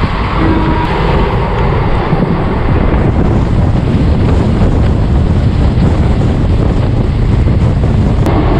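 Shramjeevi Express train running at speed: a loud, steady rumble from the moving coach, with wind buffeting the microphone.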